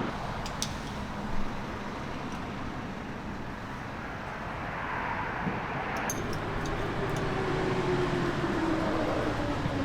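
Large truck's engine running steadily, with a few light clicks and a whine that slowly falls in pitch over the last few seconds.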